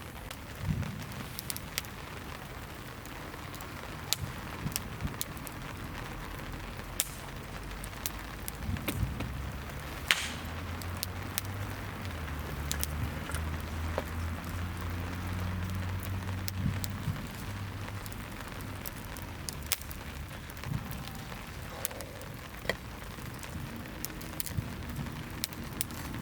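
Rain falling steadily, with scattered sharp drip taps on a surface. A low rumble rises in the middle and fades again.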